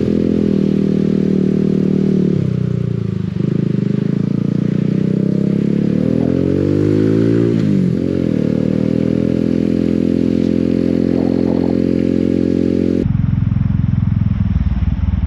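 Motorcycle engine running under way, its pitch rising and falling several times with the throttle. About thirteen seconds in, the sound changes abruptly to a lower, pulsing engine rumble.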